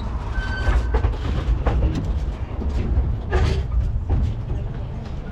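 Steady low rumble of a moving train, with gusts of wind buffeting the microphone and faint passenger voices in the background.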